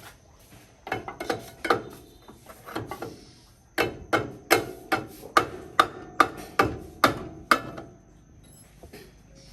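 Hammering during repair work on a tractor: a few irregular knocks, then from about four seconds in a steady run of about ten sharp blows, roughly two and a half a second.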